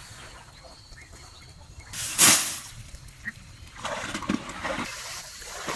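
Water splashing: one loud splash about two seconds in, then softer splashing over the last couple of seconds.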